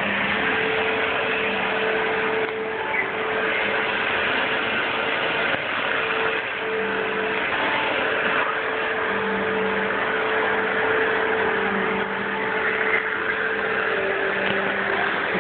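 Vacuum cleaner motor running steadily, a continuous whirring hiss with a steady hum underneath.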